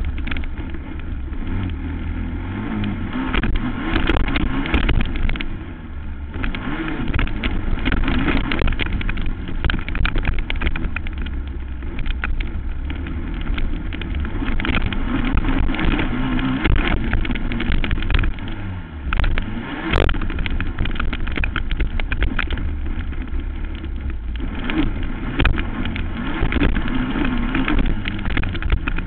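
Racing quad (ATV) engine running hard through a motocross moto, its pitch rising and falling as the throttle opens and closes. Many short sharp knocks and clicks cut through it, with one stronger crack about twenty seconds in.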